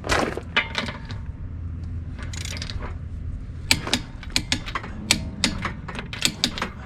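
Click-type torque wrench, set to 90 foot-pounds, ratcheting and clicking as wheel lug nuts are torqued down. There is a run of sharp clicks, a few a second, through the second half.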